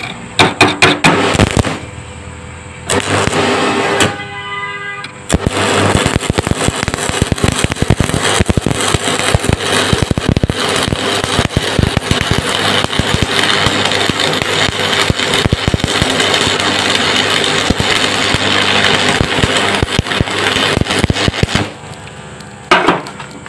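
Electric arc welding: the arc is struck with a few short crackling bursts, then burns with a steady crackle and sizzle for about sixteen seconds as a bead is run into a V-groove ground over a crack, stopping near the end.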